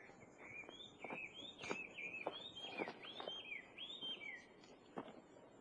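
A songbird singing a quick run of clear whistled notes that slide up and down, lasting about four seconds, faint over a light outdoor hiss. A single click near the end.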